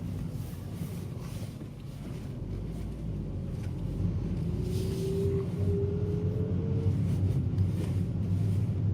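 Car engine and road noise heard from inside the cabin while driving: a steady low rumble that grows a little louder over the last few seconds, with a faint rising whine in the middle.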